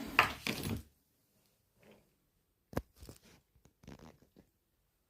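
Handling noise: a loud rustle in the first second, a single sharp knock about three seconds in, then lighter rustles and taps.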